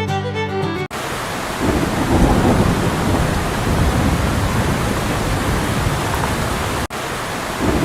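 Fiddle music cut off about a second in, followed by steady heavy rain with rumbling thunder that swells a couple of seconds later; it drops out for an instant near the end and carries on.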